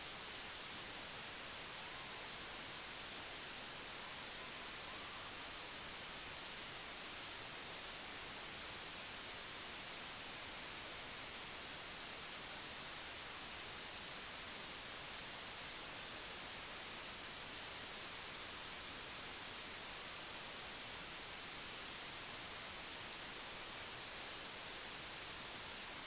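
Steady, even hiss like static, with no distinct events.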